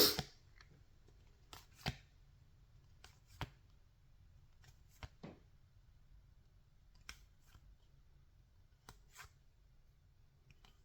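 Faint flicks and slides of cardboard trading cards being moved one at a time from the front to the back of a stack, a short click or pair of clicks every second or two, the first one at the very start louder than the rest.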